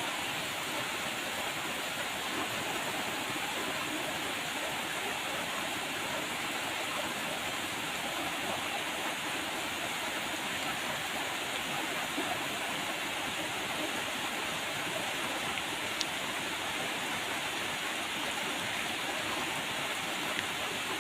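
Steady rain falling, an even hiss of water with one sharper drop tick about three quarters of the way through.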